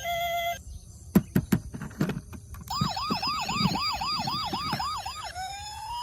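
A toy emergency vehicle's electronic siren: a fast rising yelp, about four times a second, then switching to a slow rising wail near the end. Before it, a short electronic tune cuts off and a few sharp clicks sound.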